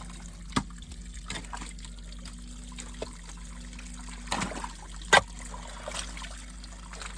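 Water trickling and running out of a freshly opened burst field drain, with a steady low engine hum underneath and a few clicks, the loudest a sharp knock about five seconds in.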